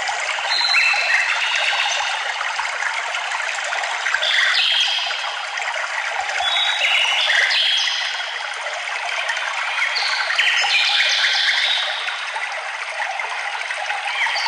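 A stream running steadily, with songbirds singing short high chirps and trills over it all through.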